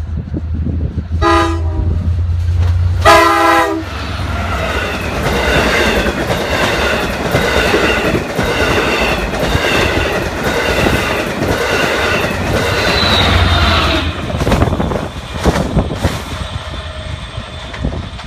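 Diesel LIRR passenger train sounding its air horn twice at a grade crossing, a short blast then a longer one. The train then passes close by, its steel wheels clattering over the rails for about ten seconds. Toward the end the sound breaks into scattered knocks and fades as the train moves away.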